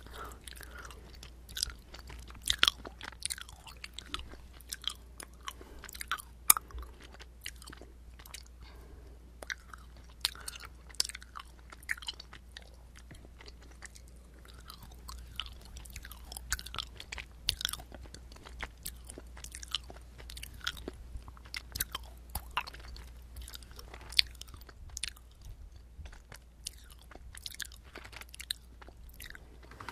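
A person chewing right at the microphone, for eating-sound ASMR: a steady run of wet mouth clicks and smacks, with a few sharper, louder bites standing out.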